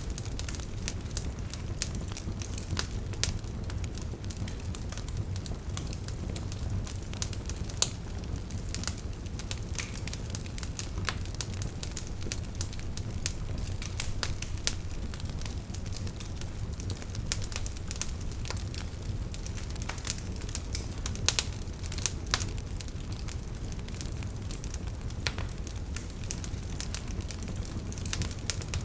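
Wood campfire burning, with irregular sharp crackles and pops from the firewood over a steady low rumble of the flames.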